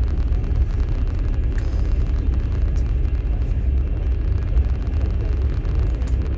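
Passenger train running, heard from inside a platskart sleeper carriage: a steady low rumble of wheels on the rails with a few faint clicks.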